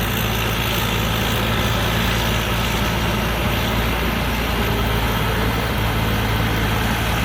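Hino J08C six-cylinder turbo diesel of a rice combine harvester running steadily under load while harvesting, a loud, even drone with machinery noise over it.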